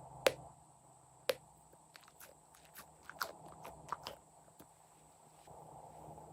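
Crunchy slime being handled and squeezed: sharp crackling clicks, two loud ones in the first second and a half, then a cluster of softer clicks a little after halfway.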